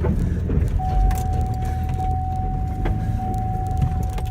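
Car engine running under load as the vehicle drives out through deep snow. A steady high tone joins about a second in.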